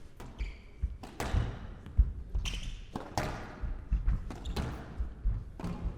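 Squash rally: the ball cracking off rackets and the court walls in an irregular string of sharp knocks, roughly one every half second, the loudest about two seconds in, with players' shoes moving on the court floor between strikes.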